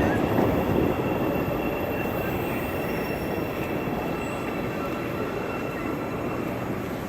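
A train running on the rails: a steady rumble of wheels with a faint, thin high squeal, slowly growing quieter.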